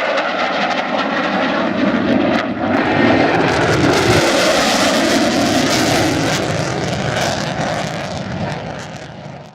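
Jet aircraft flying past, swelling to its loudest midway with a falling pitch, then fading out near the end.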